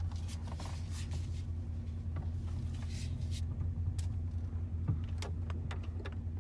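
Dodge Ram pickup's engine idling, heard from inside the cab: a steady low hum with a steady tone, dotted with light scattered clicks.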